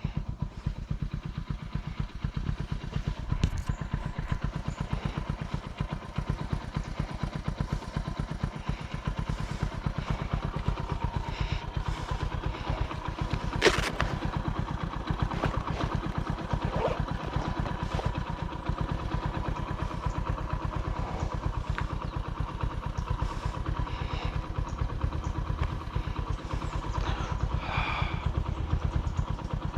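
Motorcycle engine running steadily, with scattered clicks and one sharp knock about fourteen seconds in.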